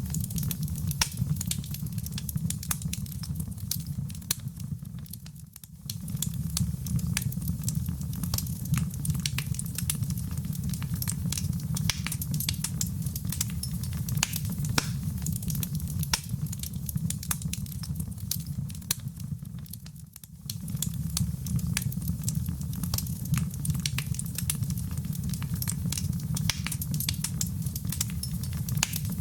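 Wood fire in a fireplace crackling: frequent sharp pops and snaps over a low, steady rumble of burning. The sound dips briefly and comes back twice, about five and twenty seconds in.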